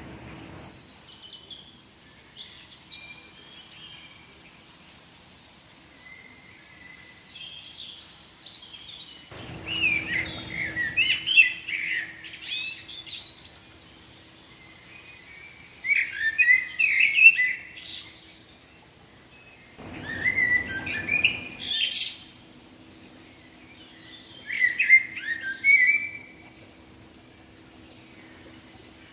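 Small birds chirping and singing in bouts lasting a couple of seconds, with quieter twittering between them.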